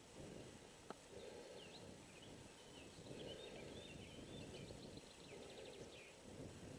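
Faint bird chirps, ending in a quick trill, over low steady background noise, with a single click about a second in.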